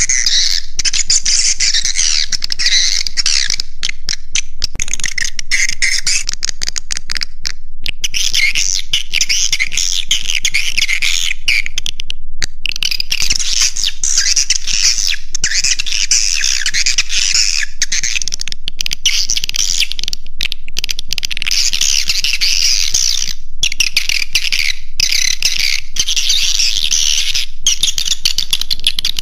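Swiftlet lure recording: a dense, continuous flock of swiftlets twittering and chirping at high pitch, broken by a few brief gaps. This is a roosting call played to draw swiftlets into a nest house.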